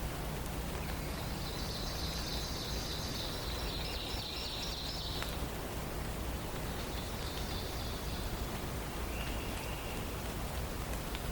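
Songbirds singing over a steady hiss of background noise: a long high trill from about half a second in to about five seconds, a shorter high phrase near the middle, and a lower brief phrase near the end.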